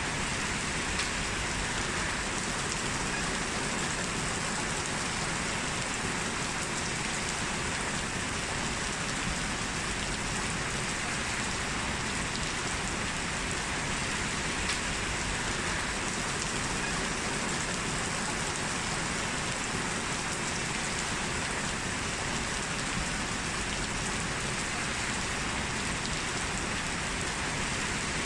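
Heavy, steady rain falling and splashing on the ground, a continuous even hiss with occasional distinct drop ticks.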